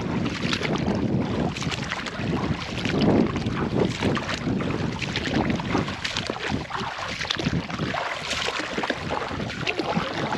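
Wind buffeting the microphone, with water noise around a kayak, in irregular gusts and splashes.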